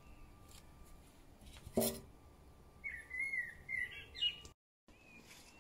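A songbird's wavering, warbling high call for about a second and a half, starting about three seconds in, over a quiet outdoor background. A single short sharp knock comes just before it, about two seconds in.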